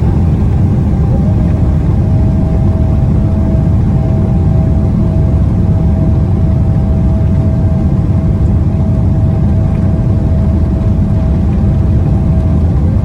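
Jet airliner engines heard from inside the cabin during takeoff: a loud, steady low rumble with a steady engine whine that drops slightly in pitch about a second in.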